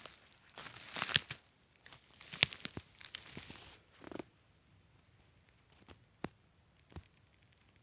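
Rustling and crackling of dry forest litter, leaves and twigs, in several bursts with sharp snaps, stopping about four seconds in; after that only a few isolated clicks.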